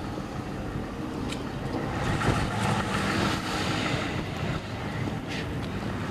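Ford Crown Victoria police car's engine running close by, with a steady hum and a swell of noise between about two and four seconds in.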